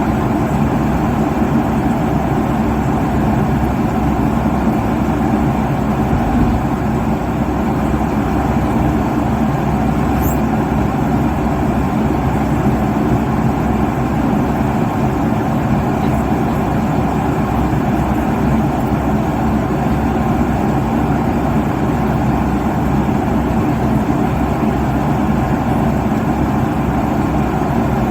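Airliner cabin noise at cruising altitude: a steady, unchanging rush of engine and airflow noise, strongest in the low and middle range.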